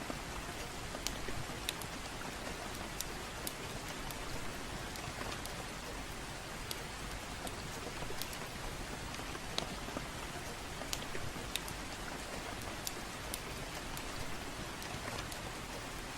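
Steady gentle rain with a crackling fireplace: a constant even hiss, with sharp crackles and pops from the burning wood at irregular moments.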